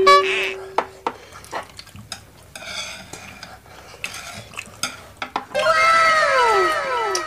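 Metal fork and chopsticks clicking and scraping on a wooden serving board of noodles. A short, horn-like held note ends about a second in. From about five and a half seconds in, several overlapping whistle-like tones slide downward in pitch.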